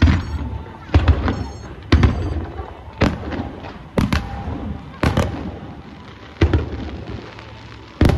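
Aerial firework shells bursting in a show, about one deep boom a second, each followed by a fading rumble of echo and crackle.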